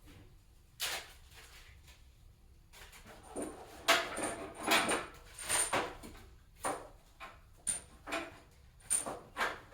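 A series of short knocks and rattles from objects being handled and set down, about a dozen spread over several seconds, some with a faint high metallic ring.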